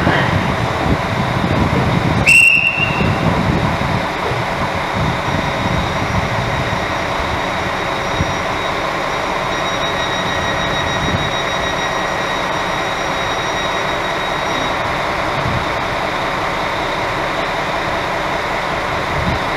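Oberpfalzbahn diesel railcar standing at the platform with its engine idling, a steady hum. About two seconds in there is a sharp click followed by a short high beep.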